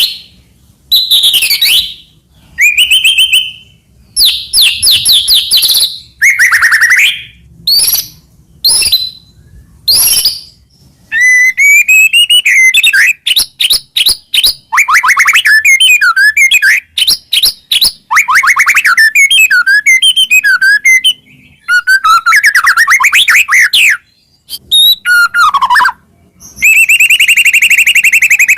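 White-rumped shama (murai batu) singing a loud, varied song. It opens with sharp, separate whistled phrases, then runs into fast rippling trills and warbles. Near the end it switches to a fast, harsh, even rattle.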